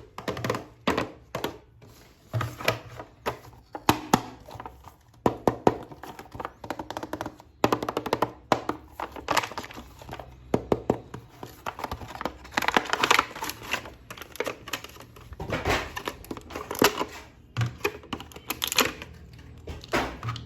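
Plastic action figure and its packaging being handled and opened: a dense, irregular run of sharp plastic clicks, taps and rustles.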